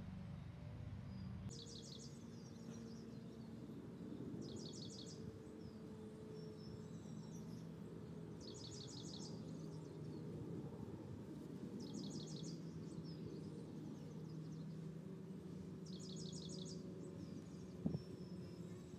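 A bird repeating a short, high, rapid trill about every three and a half seconds, five times, over a steady low background hum.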